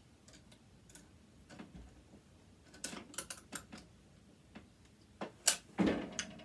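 Small clicks and taps of a screwdriver and hard parts being handled while working at a screw that turns but stays stuck. A cluster of clicks comes about halfway, then a sharp click and a duller knock near the end.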